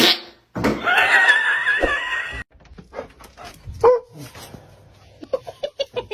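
A dog vocalizing: a long wavering whine early on, then a short yelp and a quick run of short yips near the end.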